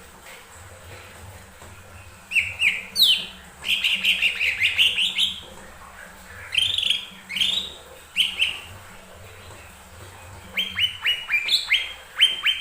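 Cucak ijo mini (lesser green leafbird) singing: several phrases of quick, sharp chirps and downward-sweeping whistled notes, separated by short pauses.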